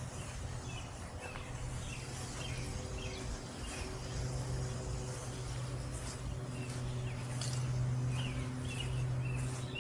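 Small birds chirping in short calls over a steady low hum.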